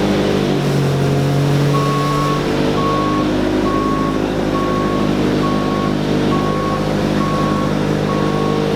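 A vehicle's reversing alarm beeping about once a second, starting about two seconds in, over the steady running of its engine, which changes pitch briefly in the first two seconds.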